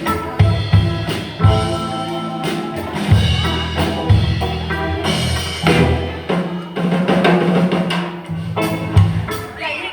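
Band music with a full drum kit, bass drum and snare hits marking a steady beat, over a sustained bass line and pitched instruments.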